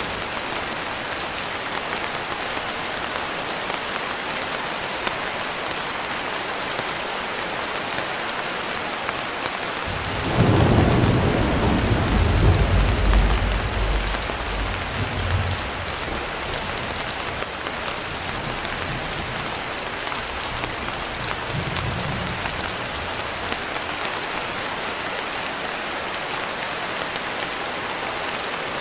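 Steady rain pattering throughout. About ten seconds in, a rolling clap of thunder rumbles low for several seconds and fades, and a fainter rumble follows later.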